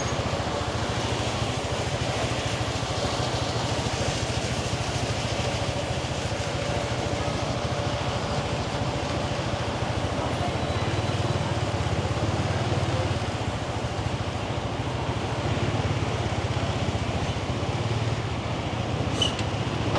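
A Yamaha 125cc motorbike's single-cylinder engine running steadily while riding, its hum mixed with road and traffic noise.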